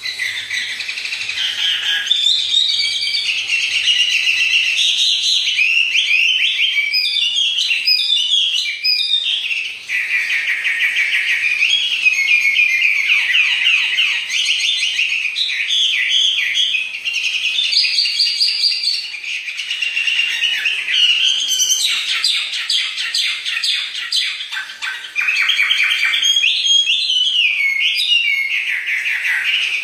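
A songbird singing loudly and almost without pause: a long, varied run of high whistled phrases, quick trills and rapid rising and falling notes, with brief breaks about ten and twenty-five seconds in.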